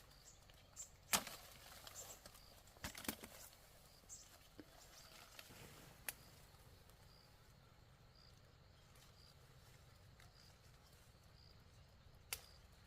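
A few sharp knocks or snaps over faint background noise: the loudest about a second in, a pair near three seconds, one near six seconds and one near the end.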